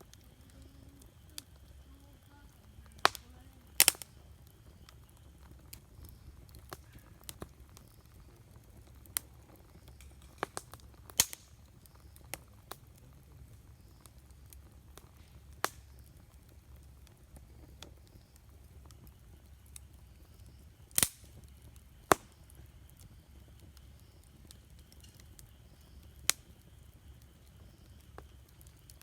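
Wood campfire burning, with sharp pops and cracks from the burning wood at irregular intervals over a low steady hum. The loudest pops come about four seconds in and about twenty-one seconds in.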